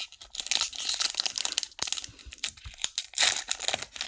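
Foil trading-card pack wrapper crinkling and tearing as it is opened, with a sharp click partway through.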